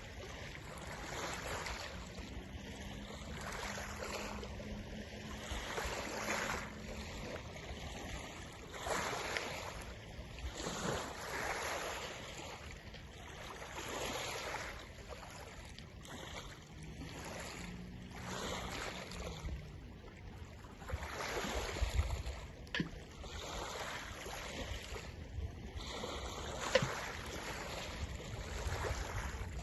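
Water washing in small waves with wind buffeting the microphone, swelling and fading every couple of seconds. A faint low hum comes and goes twice, and there are a few sharp ticks near the end.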